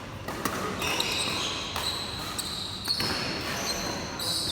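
Badminton rally in a sports hall: rackets hitting the shuttlecock in sharp, irregularly spaced cracks, with footsteps on the court.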